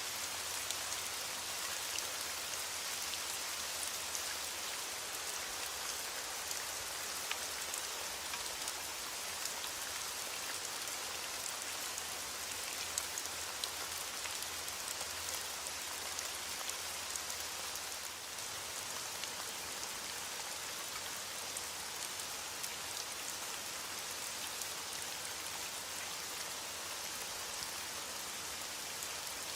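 Steady rain falling on a hard surface, with individual drops ticking through the hiss.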